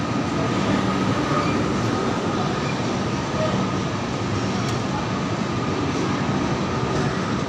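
Coaches of an Indian Railways express train rolling past along the platform: a steady rumble of wheels on the rails, with a faint thin whine over it.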